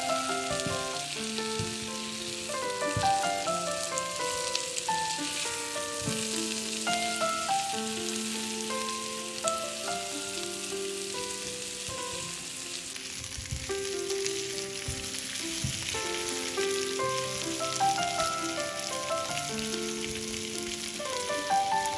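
Boiled potatoes, red bell pepper strips and red onion sizzling steadily as they fry in oil in a nonstick pan, stirred with a spatula that gives a few light taps. Background piano music plays underneath.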